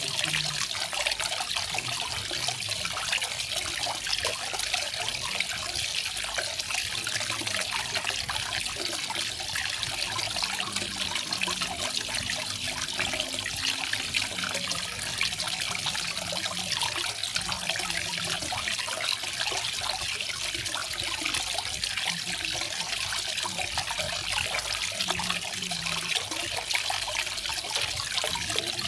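Garden waterfall: water falling and splashing in a steady, unbroken rush, bright and strongest in the high range.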